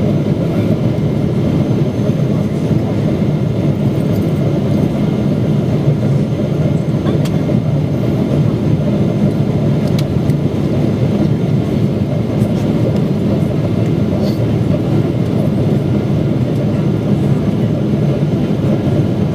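Steady roar of airflow and engine noise inside the passenger cabin of a Boeing 777-300ER during descent, with its GE90 turbofans running, a deep even rumble with a few faint clicks.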